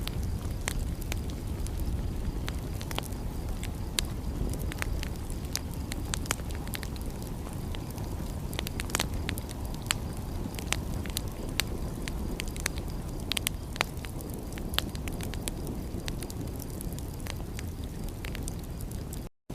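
Wood fire crackling, with frequent sharp irregular pops and snaps over a steady low rumble. The sound cuts out for a split second near the end.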